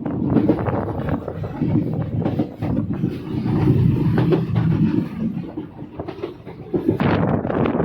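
Running noise of a moving passenger train, the Himsagar Express: a dense rumble with an irregular rattle of knocks from the wheels and coach. About seven seconds in the sound turns brighter and hissier.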